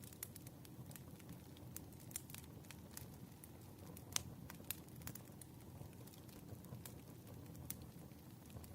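Wood fire crackling faintly: irregular sharp pops and snaps over a low steady rumble, with one louder pop about four seconds in.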